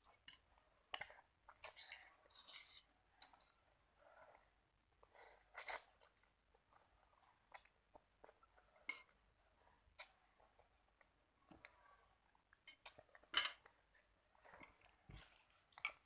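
Eating at a bowl of instant noodles: scattered light clinks and scrapes of cutlery against the bowl, with a few louder brief eating noises, one about six seconds in and one near the end.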